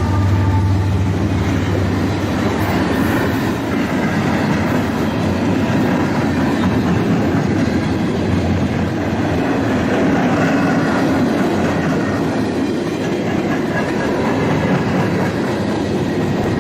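Freight train cars rolling past on the rails in a steady, loud rumble, with a horn note dying away in the first moment.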